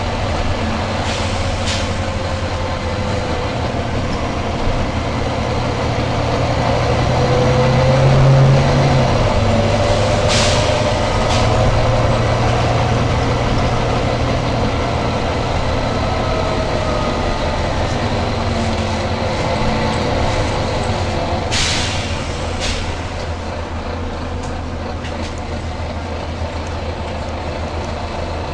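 Volvo B9TL double-decker bus with its engine running, the engine note rising and falling for a few seconds near the middle. Short sharp hisses of released air from its air brake system come about a second in, twice around ten seconds in and twice around twenty-two seconds in.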